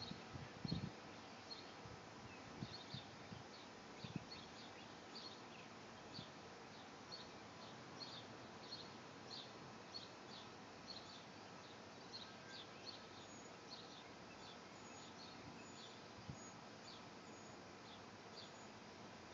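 Faint outdoor ambience with small birds chirping: short, high, irregular chirps, several a second. A few soft low bumps come in the first couple of seconds.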